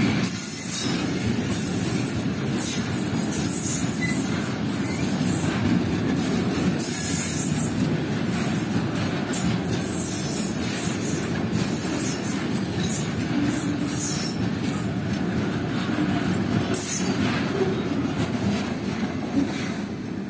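Freight train of oil tank wagons rolling past at close range: a steady rumble of steel wheels on the rails, with short flares of high hiss coming and going.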